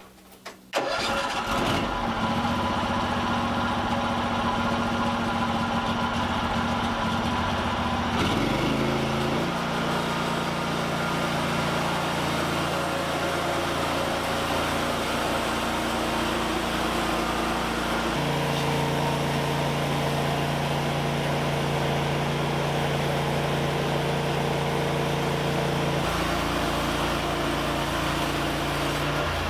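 A small engine starts about a second in and then runs steadily, its speed stepping up or down several times.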